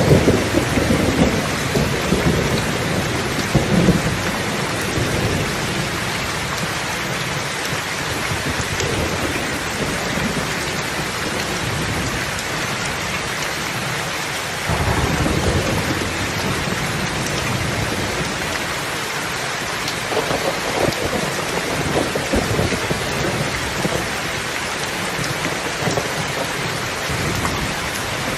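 Steady rain falling, with low rolls of thunder: one at the start, another about halfway through, and more about three-quarters of the way in.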